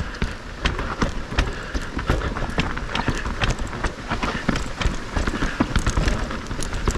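Moustache Game electric mountain bike being ridden over rough trail: tyres rumbling over dirt and roots, with constant irregular clicks and knocks of chain and frame rattle.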